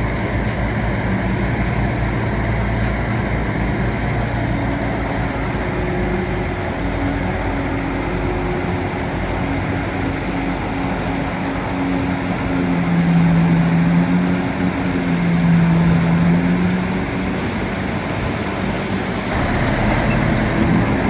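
Bulldozer's diesel engine running steadily, its note swelling louder twice in the middle stretch as it works harder.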